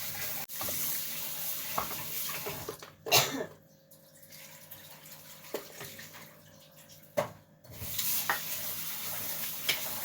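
Kitchen tap running water in a steady hiss, with two sharp knocks, one about three seconds in and one about seven seconds in, each followed by a quieter stretch.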